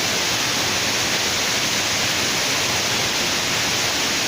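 Waterfall's water rushing, a steady, even roar of noise with no breaks.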